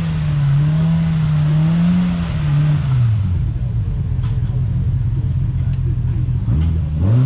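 Side-by-side UTV engine running under throttle. The revs hold high for the first couple of seconds, drop back around three seconds in, then climb sharply again near the end.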